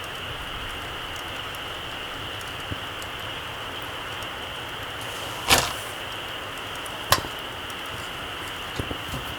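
Small campfire burning down to embers, with a steady hiss and two sharp crackling pops from the wood, the first a little after halfway and the second a second and a half later, plus a few faint ticks.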